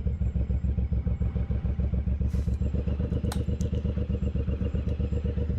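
Suzuki Boulevard M109R's large V-twin engine running at low revs, with a steady, even pulsing beat. A couple of faint light clicks sound about two and three seconds in.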